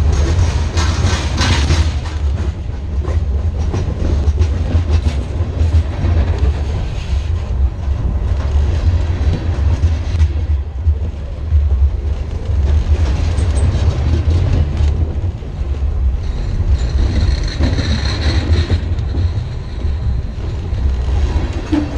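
Freight train cars rolling directly over a camera laid between the rails: a heavy, continuous low rumble with repeated wheel clacks on the rail. A brief high ringing comes in about three quarters of the way through.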